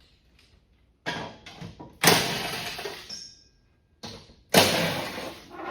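Small cordless impact wrench hammering in bursts on a zero-turn mower's blade bolt, trying to break it loose. Each burst starts suddenly; the loudest come about two seconds in and again near the end, with a faint metallic ring after the first of them.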